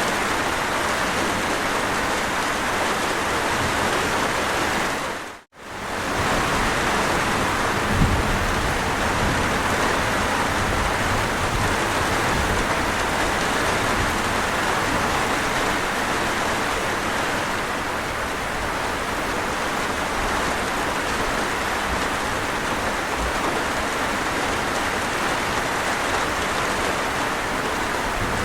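Steady rain falling, a dense even hiss. About five and a half seconds in it briefly fades to silence and comes straight back, and a short low thump follows a couple of seconds later.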